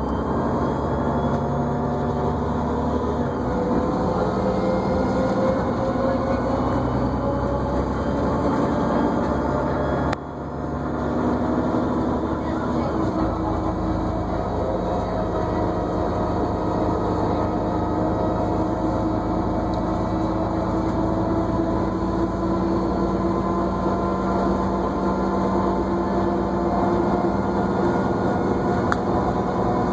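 New Flyer D40LFR diesel transit bus running, heard from inside the cabin, with a whine that rises in pitch as the bus picks up speed over the first ten seconds. About ten seconds in the sound briefly drops, then the bus runs on steadily with the whine holding one pitch.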